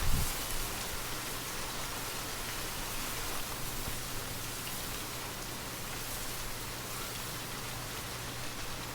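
Steady gentle rain hissing and pattering on surfaces, with a brief low swell of wind right at the start.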